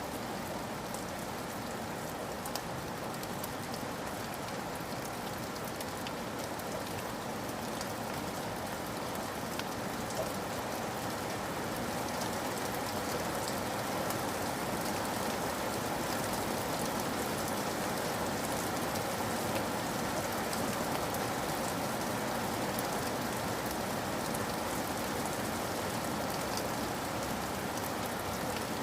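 Steady rain falling: a continuous even hiss with the patter of individual drops, getting slightly heavier about twelve seconds in.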